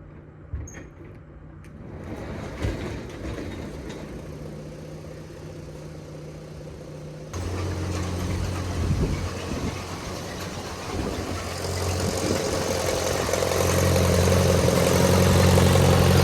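Ford half-track tractor's four-cylinder engine starting: a few clicks, then the engine catches with a sudden jump about seven seconds in and settles into a steady run. It gets louder over the last few seconds.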